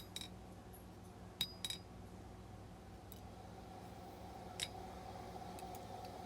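A few faint metallic clinks from the knife blade and tools being handled at the anvil while the forging is checked for straightness, over a steady low hum. Two clinks come close together about a second and a half in, and one more comes past the middle.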